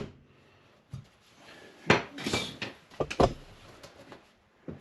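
Scattered knocks, clatters and a short scrape of hand tools and materials being handled against the wall, in small bursts about one, two and three seconds in.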